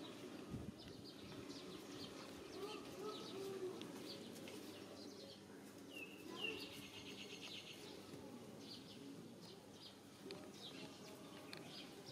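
Quiet outdoor background with small birds chirping. A rapid bird trill comes about six seconds in.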